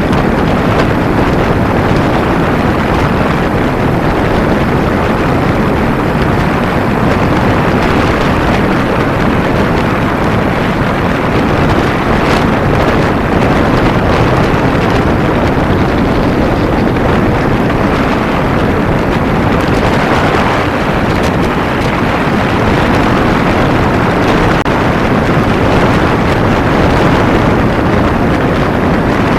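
Steady wind rush on the microphone of a moving Kawasaki Ninja 250 motorcycle, blended with the bike's engine and road noise.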